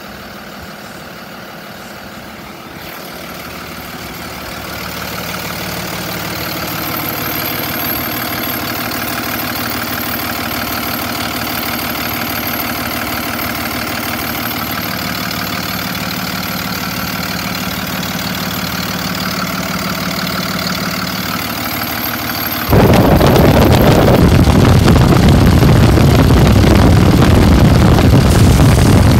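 Ryder truck's engine running with its cooling fan noise, a steady drone that slowly grows louder over the first several seconds. About 23 seconds in, a much louder rushing roar cuts in abruptly and continues.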